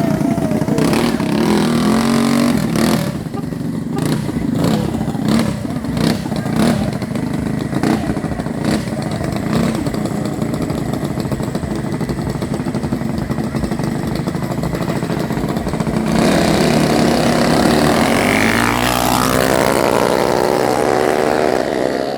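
Mini bike's small engine running, with a series of sharp clattering ticks through the first half. From about two-thirds of the way in it gets louder and revs up, its pitch climbing.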